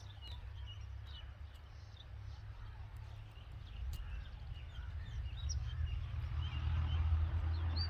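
Birds chirping: many short, high chirps in a steady scatter, over a low rumble that grows louder in the second half.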